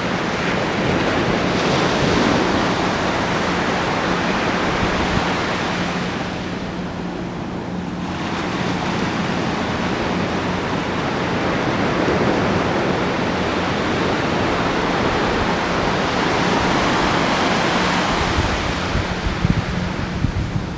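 Ocean waves breaking and washing onto the shore in slow surges, easing off about six seconds in and building again near the end, with a steady low hum underneath.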